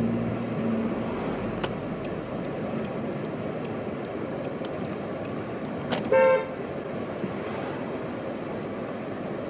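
A car horn gives one short toot about six seconds in, over steady street traffic noise.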